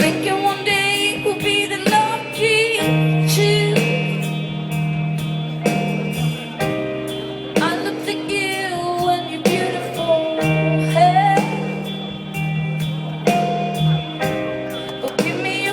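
Live rock band music with guitar, sustained held notes and a steady drum beat, played loud through a concert sound system.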